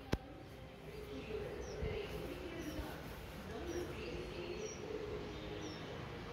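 Quiet outdoor ambience with a small bird giving short high chirps about once a second; a single sharp click just after the start.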